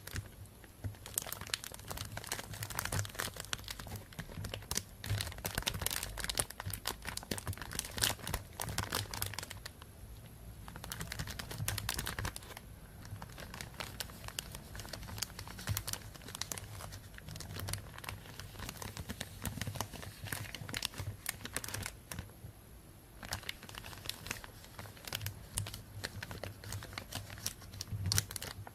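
Plastic bag crinkling and rustling as it is handled, a dense run of irregular crackles with a few short pauses, over a faint steady low hum.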